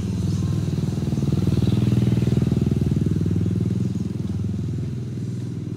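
A motorcycle engine passing, its fast even pulsing swelling to a peak about two seconds in and then fading away.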